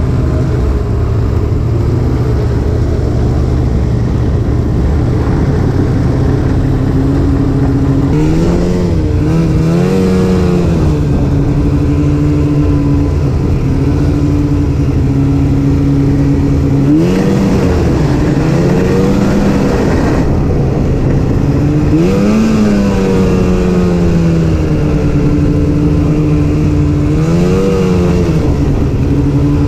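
Snowmobile engine running at speed, its pitch rising and falling four times as the throttle is let off and opened again, over a steady low rumble.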